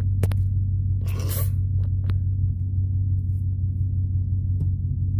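Truck engine idling, a steady low drone, with a few clicks and a short rustle about a second in.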